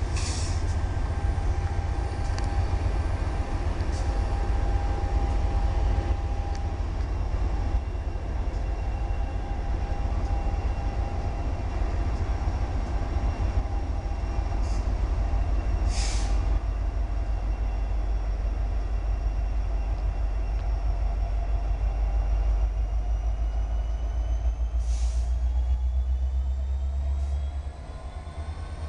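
Freight train rolling past with a steady heavy low rumble, and a few brief sharp squeals or clanks from the cars. The rumble eases shortly before the end.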